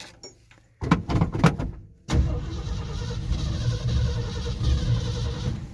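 1969 Ford F100 engine, with a freshly rebuilt carburetor, being cold-started: a few short catches about a second in, then it fires about two seconds in and runs unevenly for a few seconds before dying down near the end. The choke is not set properly, so it won't keep running without working choke and gas together.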